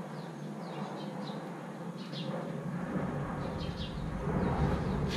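Small birds chirping repeatedly in short falling-pitch calls, over a low steady rumble that swells near the end.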